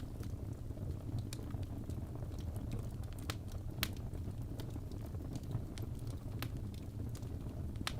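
Fire in a fireplace crackling: irregular sharp pops and snaps, the strongest a little past three seconds in and just before four seconds, over a steady low rumble.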